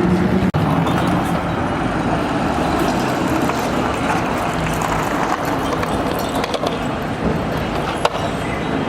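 Busy city street traffic noise with vehicles running and passing, with a sharp click about eight seconds in.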